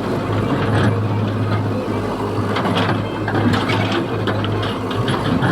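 Excavator's diesel engine running steadily, with irregular clanks and scrapes of digging over it.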